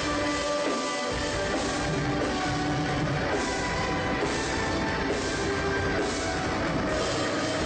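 Metalcore band playing live: held electric guitar notes, then about a second in the bass and drums come in for a loud, dense full-band passage with distorted guitars.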